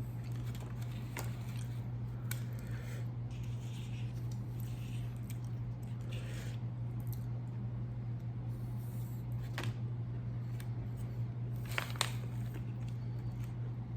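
Close-miked eating: a person chewing, with scattered sharp clicks and short crunchy, squishy bursts of food between the teeth, over a steady low electrical hum.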